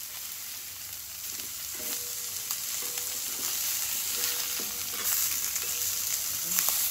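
Burger patties sizzling in a hot cast-iron skillet just after being flipped, with a slotted metal spatula scraping and clicking against the pan now and then.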